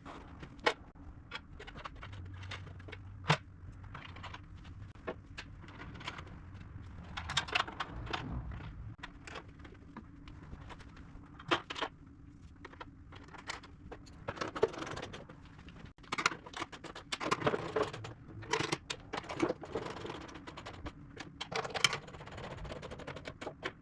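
Irregular metallic clicks, clanks and rattles of a pellet grill's pellet assembly being handled into place and bolted in by hand, over a steady faint low hum.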